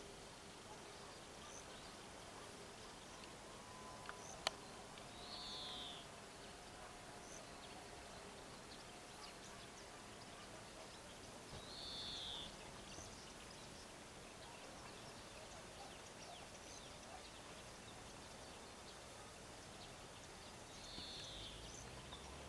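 Quiet outdoor ambience with a bird repeating a short, high call that falls in pitch, three times several seconds apart; a single sharp click about four seconds in.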